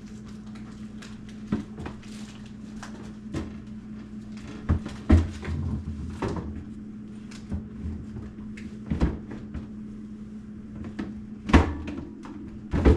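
Plastic freezer bins and food packages being set and slid onto freezer shelves: a string of knocks, clicks and rustles, the loudest about five seconds in and again near the end, over a steady low hum.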